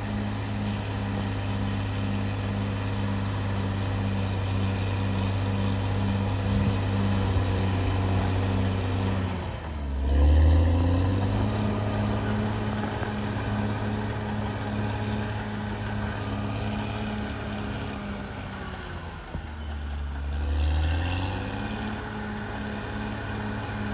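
CAT D6R XL crawler bulldozer's diesel engine running under load with an even pulsing beat. Twice, about ten seconds apart, the revs sag and then climb back with a brief louder surge.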